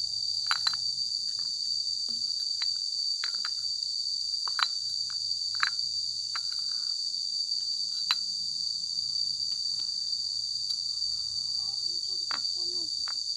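Steady high-pitched insect chorus, with a scattering of short sharp clinks and knocks from glass bottles being handled and set down.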